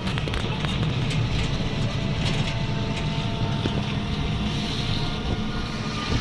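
Steady low rumble of a moving vehicle heard from on board, with faint whining tones and a few light rattles over it.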